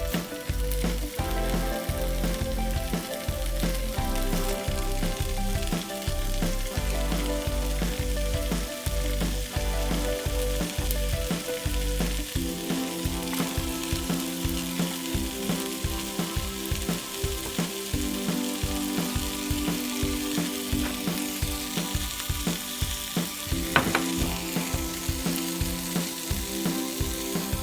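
Food sizzling as it fries, over background music with a steady beat.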